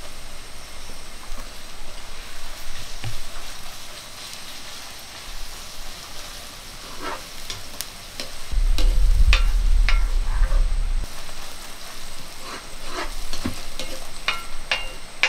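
Sliced onions and green chillies sizzling in hot oil in a black iron kadai, with a ladle stirring, clicking and scraping against the pan from about seven seconds in. A low rumble joins for a couple of seconds just after the stirring starts.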